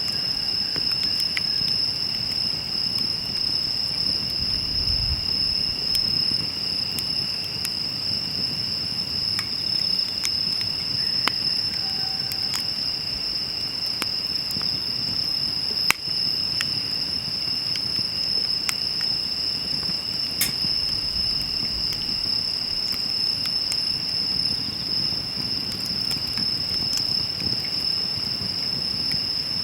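A steady, unbroken high-pitched insect chorus, with scattered sharp crackles and pops from a wood campfire burning in a steel fire pit, one pop louder about 16 seconds in.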